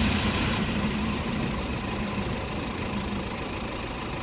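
Low rumble of a diesel freight train fading steadily as it moves away.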